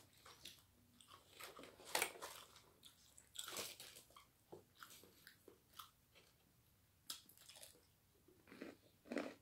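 Quiet eating sounds: chewing and biting into roasted chicken, with short crunches at irregular intervals.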